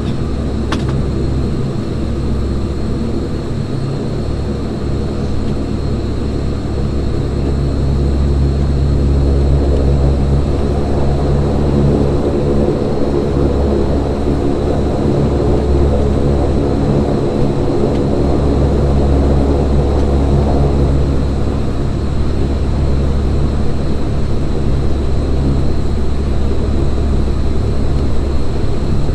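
Saab 340B's General Electric CT7 turboprop engine and propeller running at low power, heard inside the cabin beside the propeller: a steady, loud drone with a thin high whine, rising a little about nine seconds in.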